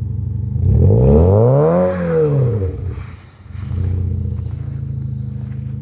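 Kia Cerato Koup exhaust with a 4-2-1 header, idling, then a single throttle blip about a second in: the pitch rises and falls back over about two seconds. It goes briefly quiet, then settles back to a steady idle.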